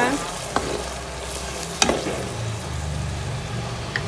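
Sweet and sour sauce sizzling in a hot wok with sautéed bell peppers as it is stirred, the utensil clicking against the pan twice.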